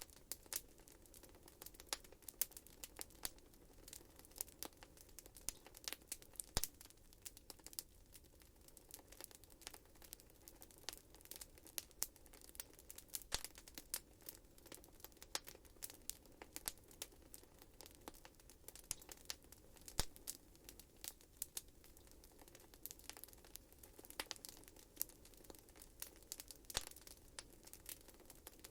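Wood fire burning in a fireplace: irregular sharp crackles and pops, several a second, some louder snaps standing out, over a faint steady low hiss.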